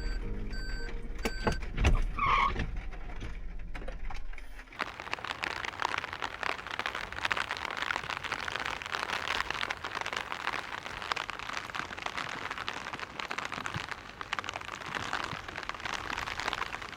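A low vehicle rumble with a few short beeps for the first few seconds, then, after a sudden cut, a steady dense patter of rain.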